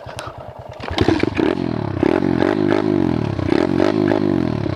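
Dirt bike engine idling with an even beat, then about a second in revving up and accelerating away, the pitch climbing and dropping back several times as it shifts up through the gears.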